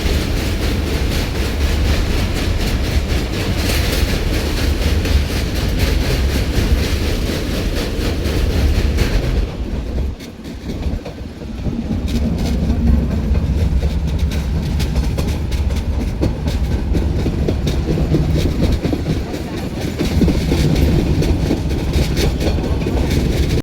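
A train running, heard from on board: a steady low rumble of the wheels on the rails, with repeated clicks. About ten seconds in, the sound briefly turns quieter and duller, then picks up again.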